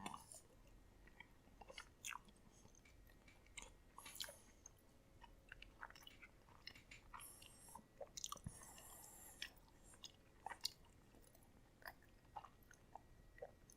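Faint chewing of a soft microwaved enchilada, with scattered small wet mouth clicks and smacks.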